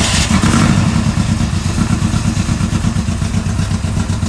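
Big-block Chevy V8 in a 1965 Pontiac GTO running just after starting, a loud, uneven pulsing beat. It is running rough on a Holley carburetor that doesn't want to cooperate, which the owners put down to a bad float.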